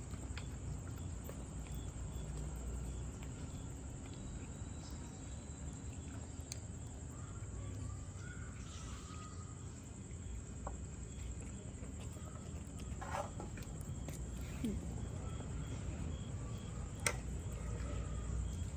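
Night-time ambience: a steady high insect chirring over a low rumble, with scattered faint clicks and a few faint, brief calls from about a third of the way in.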